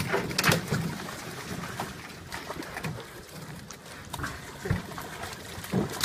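Fish leaping out of the river and dropping back, a series of sharp splashes and thumps a second or two apart over lapping water, the loudest right at the start and about half a second in.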